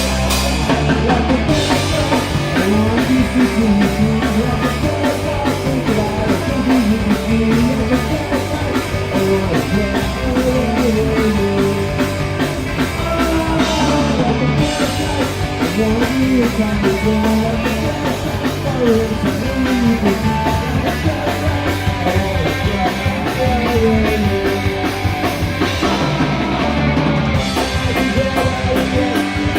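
Live punk rock band playing: electric guitars, bass and a drum kit at a fast, steady beat.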